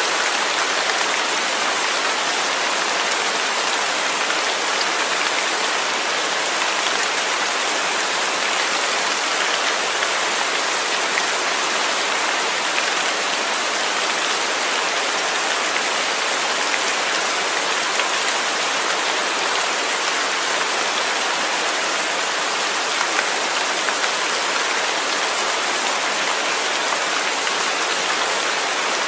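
Steady rain falling, a dense even hiss of raindrops with no change in strength.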